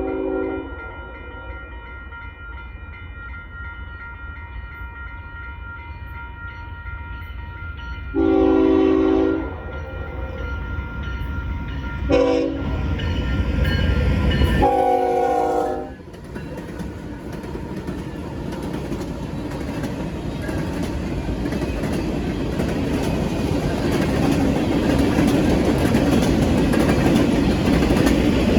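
Union Pacific freight locomotive's air horn sounding the grade-crossing signal: the end of one long blast, then a long, a short and a long. The locomotive and freight cars then roll past, with wheel and engine noise growing steadily louder, while a crossing bell rings steadily under the horn.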